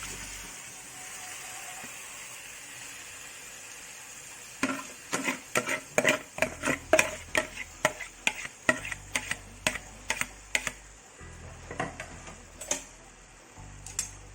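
Curry masala sizzling in a pot as the chicken pieces go in, then a spoon knocking sharply against the pot about three times a second as the chicken is stirred into the masala, with a few more scattered knocks near the end.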